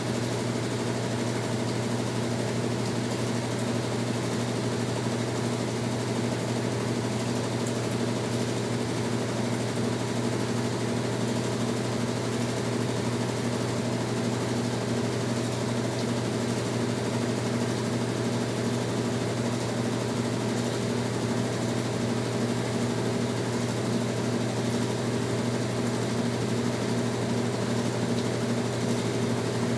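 Brastemp Tira Manchas Pro 12 kg washing machine running mid-cycle: a steady motor hum with a regular pulsing beat in it.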